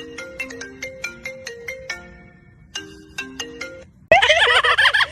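A marimba-style phone ringtone plays its repeating melody of short, clean notes. About four seconds in, a loud wavering, warbling cry cuts in over it.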